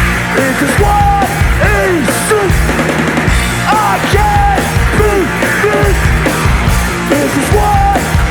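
A punk rock band playing live: distorted electric guitars, bass and drums, loud and without a break, with sliding guitar lines over the top.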